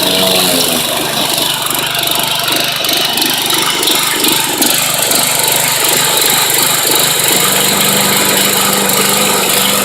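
Kawasaki 4.5 hp OHV single-cylinder engine of a John Deere 14SE push mower running steadily.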